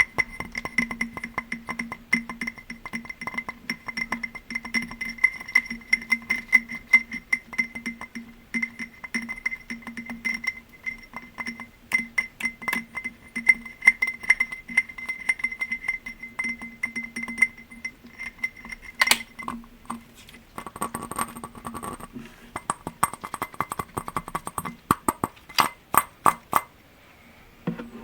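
Rapid tapping on a glass object that rings with steady tones under the taps. About twenty seconds in, the tapping moves to a second glass object with a different ring. It stops shortly before the end.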